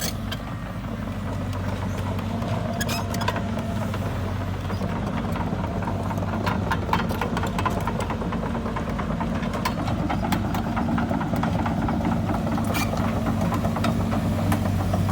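Caterpillar excavator's diesel engine running steadily, with scattered sharp clanks and clicks over it as the machine travels on its tracks.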